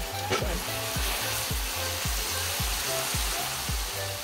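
Julienned carrots and other vegetables sizzling in a wok over a charcoal fire while being stirred, a steady hiss. Background music with a steady bass beat, about two beats a second, runs underneath.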